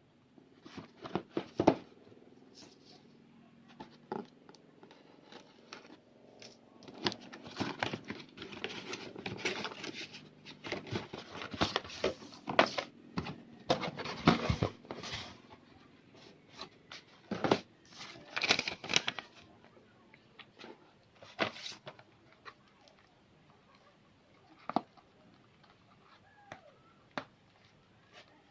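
Irregular clicks, taps and rustling of a small product and its packaging being handled, with the busiest stretch in the middle and only a few scattered clicks near the end.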